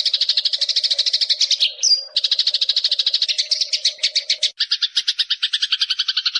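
Eurasian tree sparrow chattering: a fast, even run of chirps, about ten a second, with a brief higher chirp near two seconds in. A little past four and a half seconds the chirps turn lower and two-pitched. A faint steady hum runs underneath the first part.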